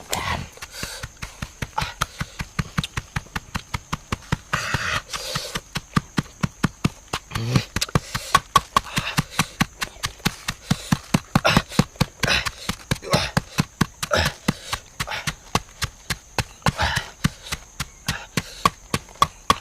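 A fast, regular run of sharp knocks, several a second, with a few short breathy sounds in between.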